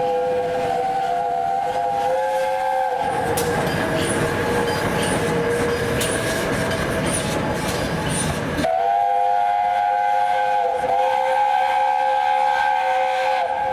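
A railway locomotive gives a steady, slightly wavering whistling tone. It is drowned for about six seconds in the middle by a loud rushing hiss with rumble, which stops abruptly before the tone comes back.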